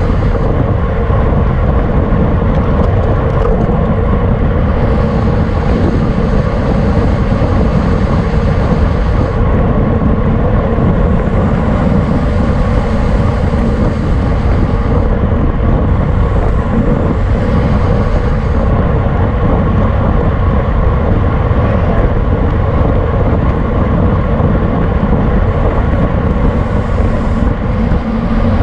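Steady wind rush over a bike-mounted camera's microphone while riding at race speed.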